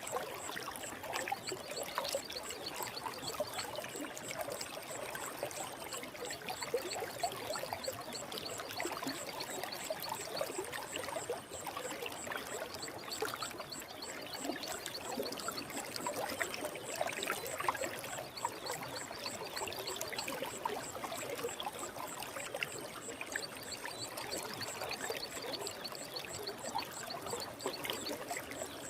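Forest stream flowing, its water burbling and trickling at a steady level.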